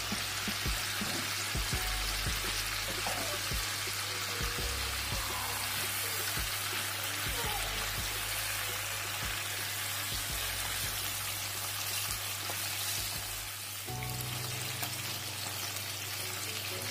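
Chicken pieces and tomato halves sizzling in hot oil in a nonstick pan, with soft background music.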